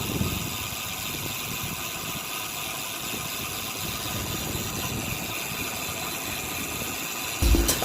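Steady road traffic noise during a bike ride: an even rushing hum of vehicles with no sudden events.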